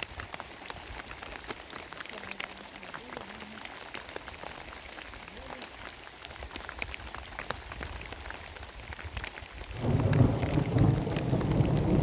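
Rain falling steadily, with many separate drops ticking sharply on a surface. About ten seconds in, a much louder low rumble of thunder sets in.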